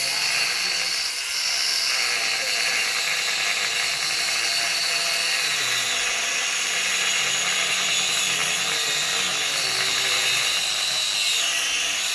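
Angle grinder running against steel, a steady high whine with a grinding hiss.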